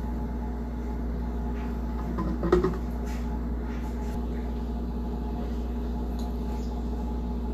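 Steady low appliance-like hum, with a brief knock or clatter about two and a half seconds in.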